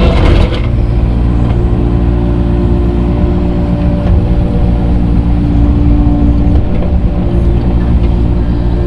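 Tractor engine running steadily while grading dirt, with a short clatter right at the start.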